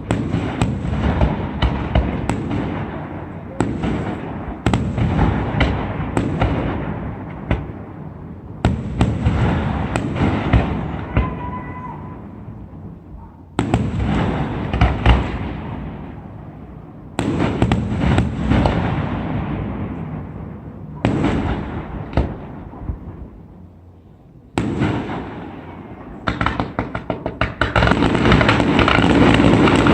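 Fireworks display: aerial shells bursting one after another, each loud bang followed by a rolling echo that fades over a few seconds. Near the end come quick pops in rapid succession, building into a dense, continuous barrage that is the loudest part.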